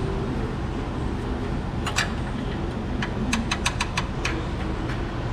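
Sharp metallic clicks of hand tools working a fastener on a Jeep's suspension bar: one click, then a quick run of about six or seven clicks over about a second, over a steady low rumble.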